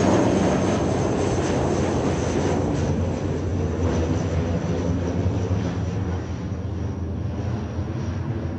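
Jet airliner's engines at takeoff thrust, a heavy rumbling roar with a thin high whine that slowly fades as the plane climbs away.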